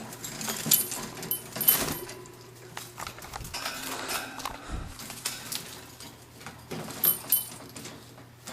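Metal birdcage rattling and clinking with rustling as a towel is worked inside it to catch the bird; a few sharp metallic clinks stand out, loudest just under two seconds in and again about seven seconds in.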